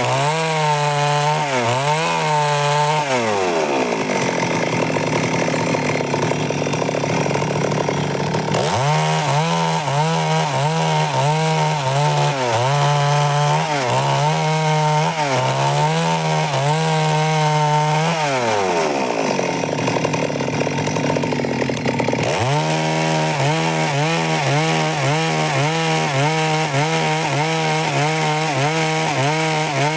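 Stihl MS 382 two-stroke chainsaw running continuously while sawing wood, its engine note wavering up and down under load. Twice the steady note slides away into several seconds of rougher, noisier running before it settles back.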